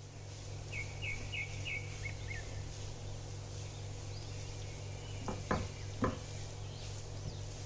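Steady low hum with a bird chirping a quick run of about five short high notes near the start. Two sharp knocks come a little past the middle.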